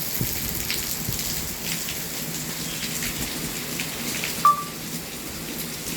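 Steady rain hiss with scattered small ticks of drops, and one short high-pitched squeak about four and a half seconds in.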